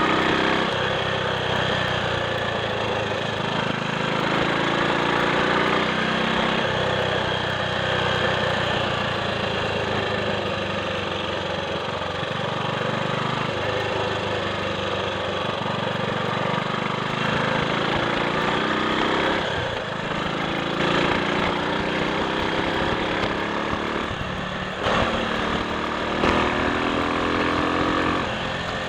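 Triumph Sports Cub's single-cylinder four-stroke engine running on the road, its note rising as it accelerates and dropping back several times through gear changes, with wind rush over it.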